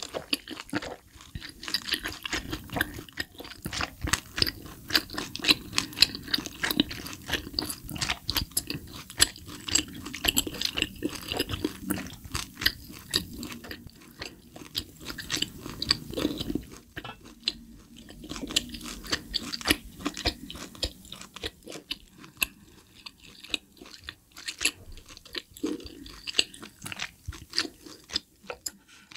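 Close-miked chewing of a piece of Hanwoo tomahawk steak, with wet mouth clicks and smacks. The chewing is dense and steady at first and grows sparser after about 17 seconds.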